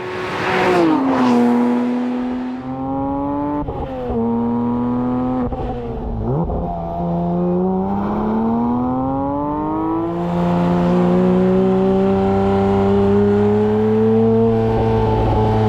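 Porsche 911 GT3 S/C's naturally aspirated 4.0-litre flat-six pulling through the gears: its note climbs and then drops sharply at each of several upshifts of the six-speed manual. For the last few seconds it holds a steadier, slowly rising note.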